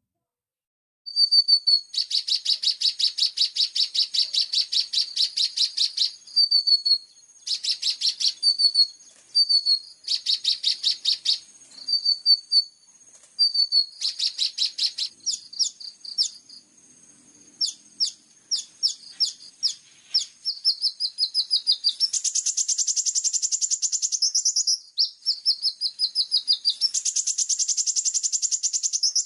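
Australasian bush lark (branjangan) song: long, very fast high trills alternating with short whistled notes and quick chips, starting about a second in.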